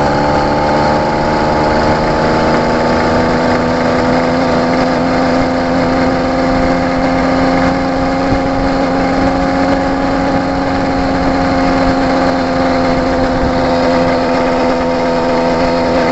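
Two-stroke 66/80cc bicycle engine kit running under way, its pitch rising a little over the first few seconds and then holding steady.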